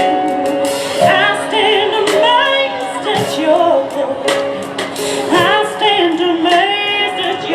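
Live gospel music: female voices singing bending, held melodic lines over piano and drums, with sharp drum hits scattered through.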